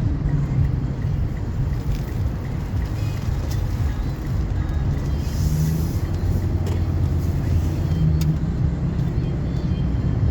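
A car being driven: a steady low rumble of engine and tyre noise, with a few faint clicks.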